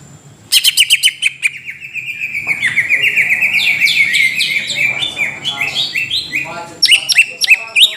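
Cucak ijo (green leafbird) singing a rapid chattering song of short, sweeping notes repeated many times a second. It starts suddenly about half a second in and grows louder again near the end. This is the kind of lure song played to provoke other cucak ijo into singing.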